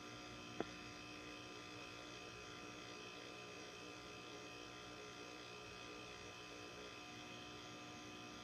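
2018 LG refrigerator's linear compressor running with a steady hum and buzz made of several fixed tones, a noise the owner puts down to poor build quality. A single sharp click about half a second in.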